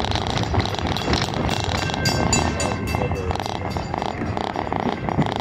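Heritage passenger train car rolling along the track, heard from on board: a steady rumble with some clatter from the wheels and car.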